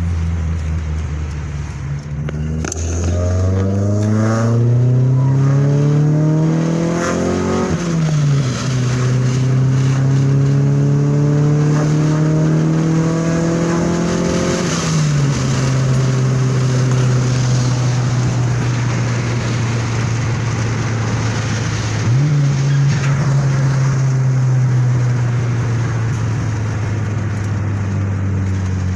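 Honda B18 VTEC four-cylinder engine accelerating on the road: its pitch climbs steadily through a gear, drops sharply at a shift about eight seconds in, and climbs again to a second shift around halfway. After that it holds a steady cruise, with a brief change in pitch about three-quarters through.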